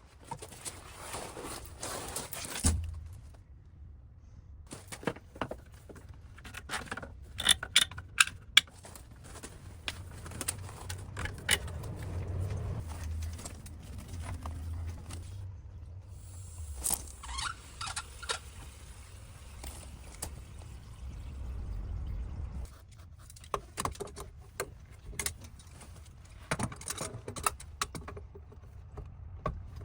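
Repeated metallic clinks, knocks and scrapes of hand tools and parts being handled, over a low steady rumble.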